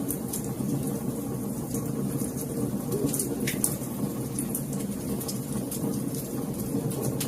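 Wood fire burning in a fireplace: a steady low rumble of flame with constant small crackles and a few louder pops about three seconds in.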